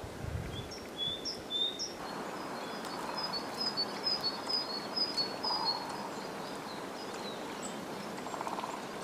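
Small birds calling: a string of short, high chirps that run into a quick twitter for a few seconds, over quiet forest background.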